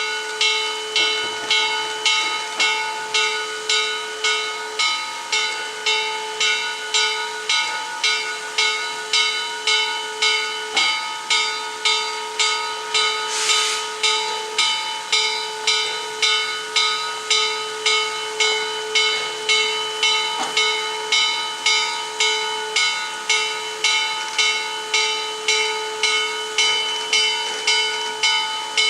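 Locomotive bell ringing steadily, about one and a half strokes a second. A short burst of steam hiss comes about halfway through.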